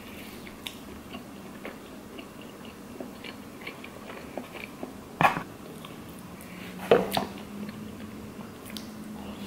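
Close-miked chewing of a burrito, with small wet mouth clicks, and the soft tearing of the tortilla as it is pulled apart by hand. Two louder, short mouth sounds stand out about five and seven seconds in.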